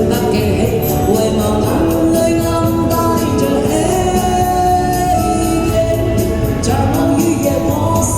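A song: a sung vocal with long held notes over a backing track with a steady beat.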